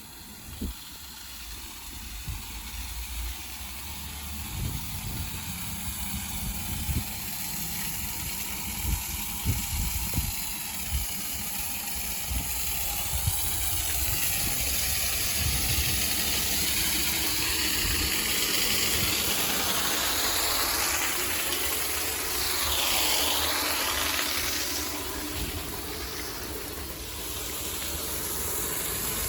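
A heavy vehicle's engine running under a steady hiss, with scattered low knocks early on and the hiss growing louder in the second half.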